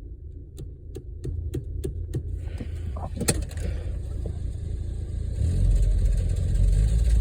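Car engine idling with a steady low rumble, its exhaust leak patched; it is not surging or stalling, and the owner hears nothing bad in it now. A quick run of clicks comes early, then a sharp knock about three seconds in, and the engine rumble grows louder from about five and a half seconds.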